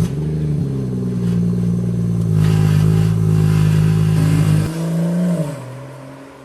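2017 BMW M140i's 3.0-litre turbocharged inline-six on a cold start. It catches with a loud flare and holds a fast, steady cold idle. About five seconds in the idle drops lower and the sound fades.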